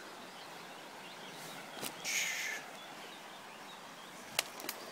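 Woody flood debris snapping and rustling underfoot: one sharp snap just before two seconds in, a short scratchy rustle right after it, and a few more snaps near the end, over a steady outdoor hiss.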